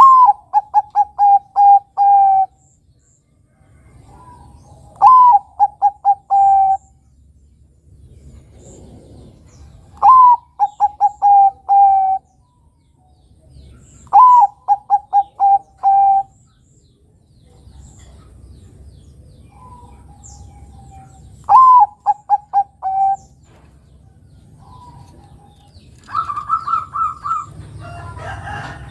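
Bangkok-type zebra dove (perkutut) singing its cooing phrase five times, one every four to five seconds. Each phrase opens with a higher falling note, then runs into a string of short, clipped coos. Near the end a higher, faster run of notes comes in, with other chirps over it.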